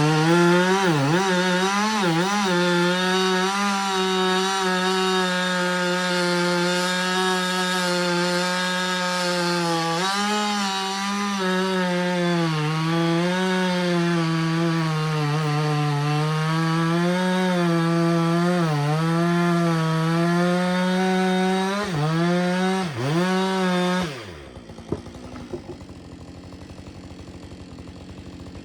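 Husqvarna 562XP two-stroke chainsaw cutting through a piece of firewood at full throttle, its engine pitch sagging and recovering as the chain loads in the wood, with a few brief dips and recoveries. About 24 seconds in the engine winds down and drops away, leaving only a faint sound.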